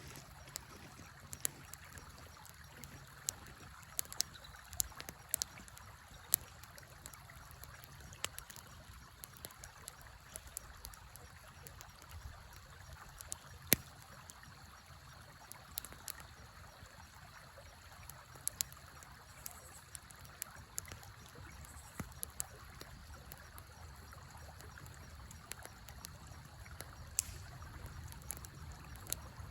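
Wood fire crackling, with sharp pops scattered irregularly (the loudest about halfway through), over the steady sound of a flowing river.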